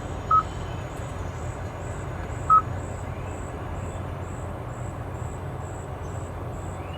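Nature-sounds soundscape playing through the car's speakers: a steady hiss with faint, evenly spaced insect-like chirps about twice a second, and two short, high chirps, one near the start and one about two and a half seconds in.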